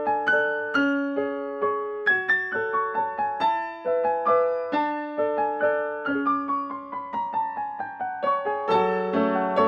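Background music: a piano-like keyboard playing a gentle melody of struck notes that fade away, about two or three notes a second, with lower notes joining near the end.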